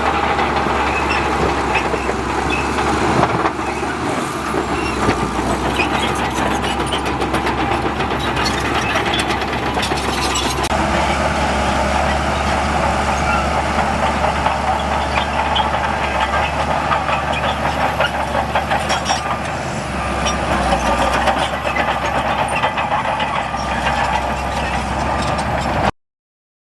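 Diesel engine of heavy earthmoving machinery (bulldozer or dump truck) running steadily, with a few sharp knocks. The sound cuts off suddenly near the end.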